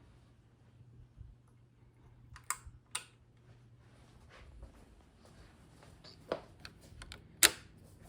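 Hunter Original ceiling fan motor humming low, with a scatter of sharp clicks and taps over it, the loudest about seven and a half seconds in.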